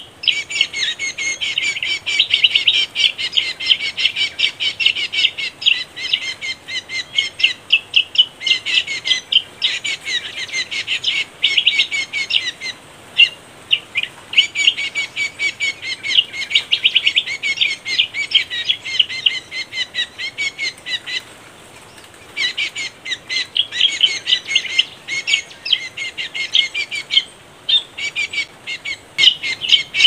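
Birds chirping rapidly and without let-up, a dense run of short high calls broken by brief pauses about 13, 21 and 27 seconds in.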